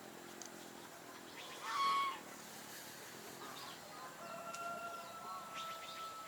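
Poultry calling: one short loud call about two seconds in, then a long held call starting a little past the four-second mark.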